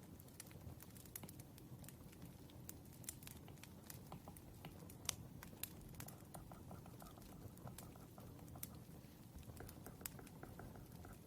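Faint crackling of a wood fire: irregular sharp pops and snaps, one louder pop about five seconds in, over a low steady rumble.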